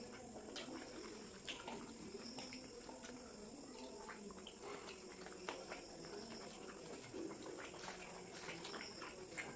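Two people biting into and chewing chicken rolls, with irregular wet mouth clicks scattered throughout.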